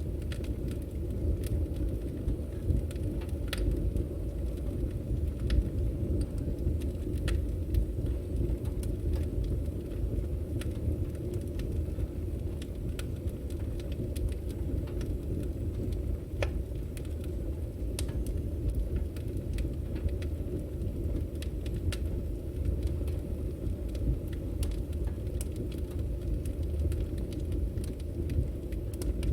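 Burning firewood crackling, with scattered sharp pops over a steady low rumble of the fire.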